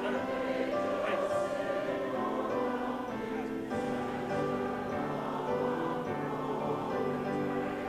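A choir singing slow, long-held notes.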